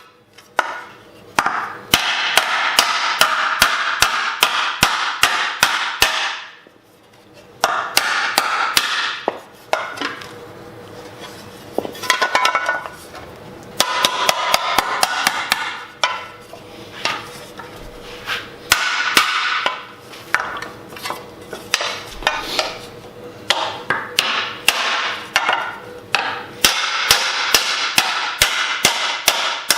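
Mallet blows on sheet metal over a dished Delrin shrinking stump, struck in quick runs of a few blows a second with short pauses. Each blow rings the panel as its edge is shrunk and rolled over.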